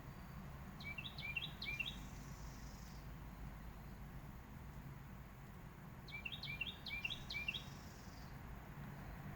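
A songbird calling twice, each time a quick run of about five short downslurred notes lasting about a second, followed by a faint higher buzz. The first run comes about a second in, the second about six seconds in, over a faint steady low outdoor rumble.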